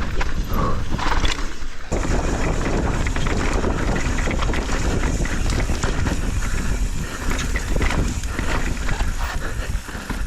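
Mountain bike descending a dirt trail at speed: wind buffeting the microphone, with the tyres on dirt and the bike rattling over bumps in many short knocks.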